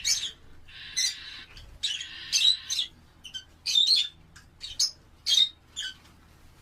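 Lovebirds calling: a run of short, shrill chirps and squawks, with two longer raspy calls about one and two seconds in, thinning out toward the end.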